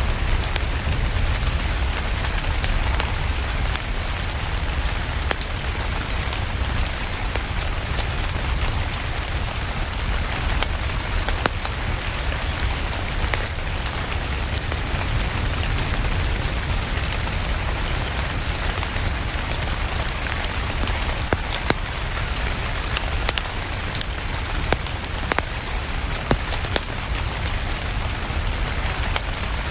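Steady rain mixed with a crackling wood fire: an even hiss of rain over a low rumble, with scattered sharp pops and crackles.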